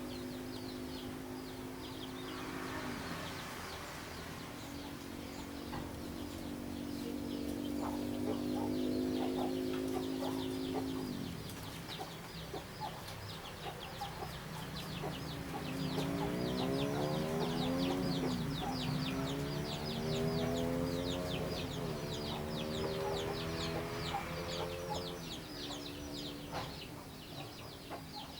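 A flock of small sparrow-like birds chirping rapidly and without pause, over a low pitched drone that holds steady, breaks off, then wavers up and down in the second half.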